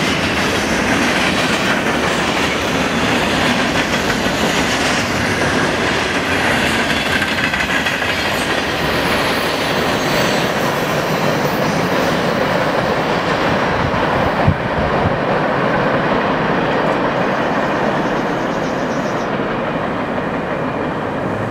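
Freight train cars rolling past on the rails: a steady rumble of wheels on track that grows duller and a little quieter in the second half as the train pulls away. One sharp thump about two-thirds of the way through.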